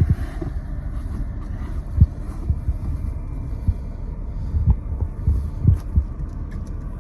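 Wind buffeting the microphone: a steady low rumble broken by irregular low thumps, about half a dozen of them.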